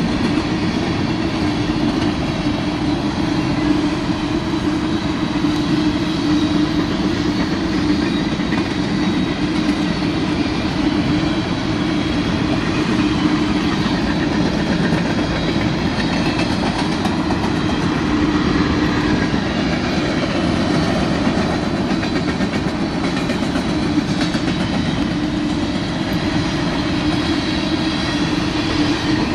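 Covered hopper cars of a long freight train rolling steadily past, wheels running on the rails without let-up.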